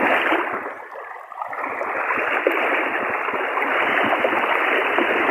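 Floodwater rushing steadily, a continuous churning rush that dips briefly about a second in before coming back at full strength.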